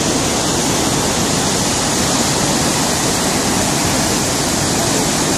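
Floodwater rushing, a loud, steady, unbroken noise.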